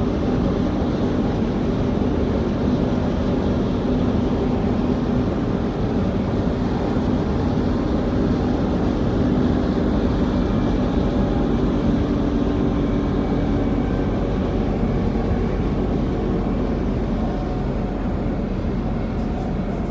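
Interior running noise of a Transperth Bombardier B-series electric train: a steady rumble with a low hum. The hum fades about two-thirds of the way through and the noise eases slightly as the train nears Canning Bridge.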